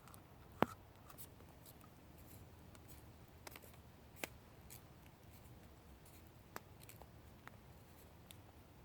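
Small cutting and scraping sounds as a knife shaves thin, wet twigs into tinder, with a few sharp clicks or snaps at irregular intervals.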